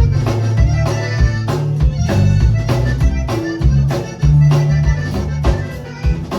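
Accordion playing Latin-style music with a band: a low bass line under the accordion's held chords, and a steady quick beat of drum and percussion hits about three a second.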